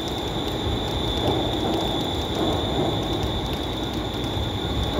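Class 380 electric multiple unit pulling out of the platform: a steady rumble of wheels and running gear, with a thin, steady high-pitched tone above it.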